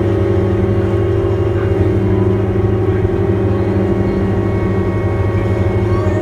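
A ferry's engine running steadily, a loud low droning hum that holds an even pitch throughout.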